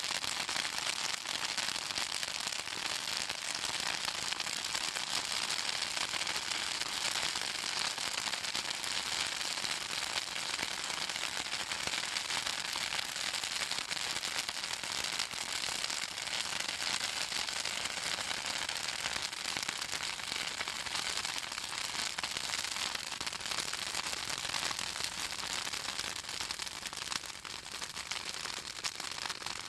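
Pruned Southern magnolia branches burning in an open bonfire, crackling and popping densely and without a break. The oil in the wood makes it crackle like this.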